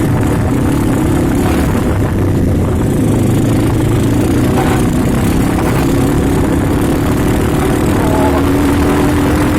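Motorcycle engine running steadily under way, its pitch drifting slightly up and down with the throttle.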